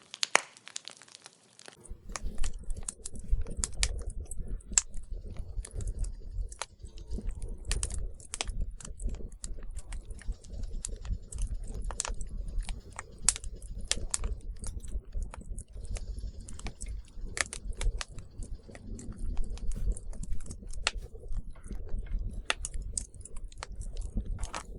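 Wood campfire crackling: irregular sharp pops and snaps over a steady low rumble that starts about two seconds in.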